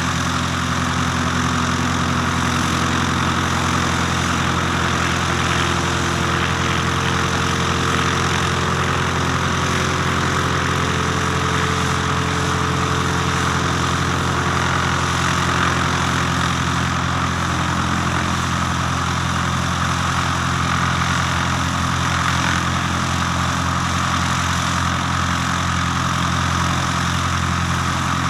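Cessna 152's four-cylinder Lycoming piston engine and propeller running steadily at low power, with an even, unchanging drone.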